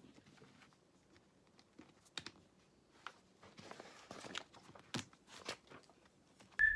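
Faint small-room handling sounds: scattered light clicks and taps, with a soft rustle about three and a half seconds in. Guitar music starts again at the very end.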